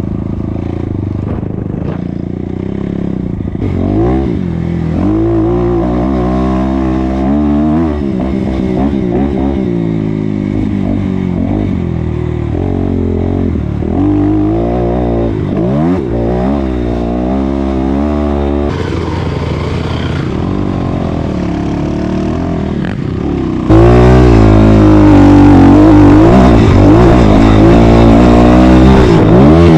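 Dirt bike engine being ridden hard, its revs climbing and dropping again and again with the throttle. About three quarters of the way through it suddenly becomes much louder.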